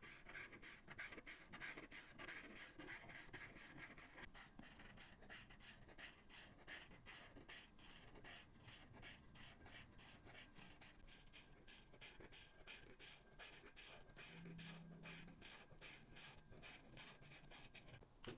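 Faint, quick back-and-forth strokes of alcohol art markers scratching across paper, about four or five strokes a second.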